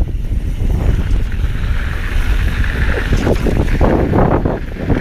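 Wind buffeting the camera microphone on a mountain bike ride over a dirt trail, a steady low rumble with scattered rattles and scrapes from the tyres and bike, busier between about three and four and a half seconds in.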